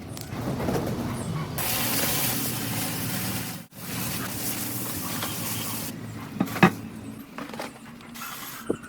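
A loud, steady hiss of spraying air or liquid, cut off abruptly for an instant midway and then resuming, followed by a sharp click and a few lighter tool clicks.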